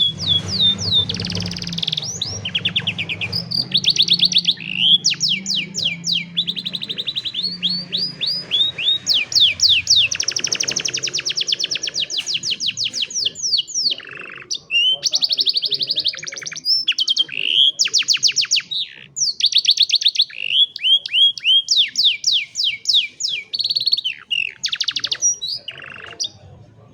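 Domestic canary singing a long song of rapid trills: each phrase is a fast run of one repeated note, switching to a new phrase every second or two, with a few brief pauses. A low hum runs under the first several seconds.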